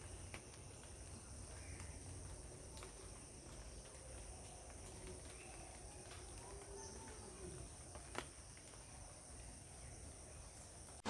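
Faint, steady high-pitched drone of insects, with a few light ticks and one sharper tick about eight seconds in.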